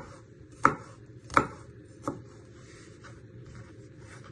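Kitchen knife chopping garlic cloves finely on a chopping board: four sharp knife strikes about two-thirds of a second apart, the last one lighter, then faint scraping.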